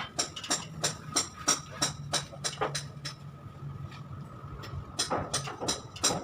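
A quick, regular series of sharp knocks or taps, about three a second, over a steady low hum.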